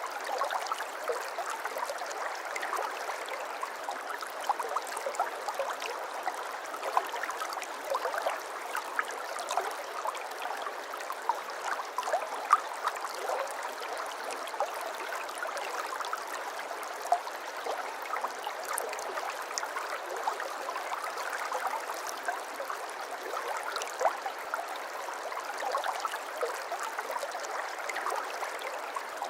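Shallow stream water flowing and babbling, a steady splashing trickle with many small bright plinks.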